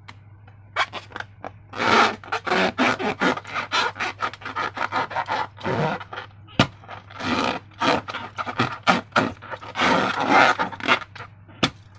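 Rubber balloon being rubbed and handled by hand: a quick, irregular run of scratchy rubbing strokes, with a couple of sharp clicks.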